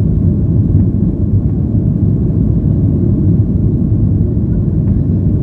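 Steady low rumble of a Boeing 737-800's CFM56-7B turbofan engines and rushing air, heard inside the passenger cabin during take-off.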